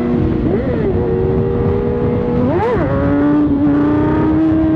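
600cc inline-four sport bike engine running at a steady pace over a constant rushing noise, with two quick rev spikes, about half a second and two and a half seconds in, each rising and then dropping back.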